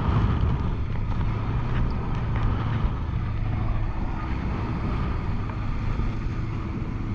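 Wind buffeting the microphone of a parasailer in flight, a steady low rumbling rush.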